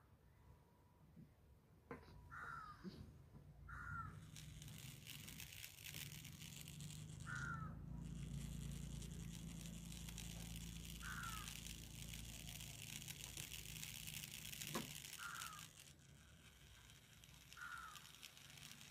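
A bird calling, six short falling calls a few seconds apart, over a steady hiss with a low hum that starts about four seconds in and drops away near the end, with one sharp click shortly before the hum stops.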